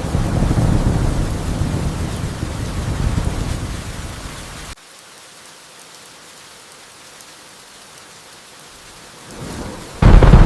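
Steady rain with thunder. A loud low rumble of thunder fills the first half and cuts off abruptly, leaving rain alone. Another loud rumble breaks in suddenly near the end.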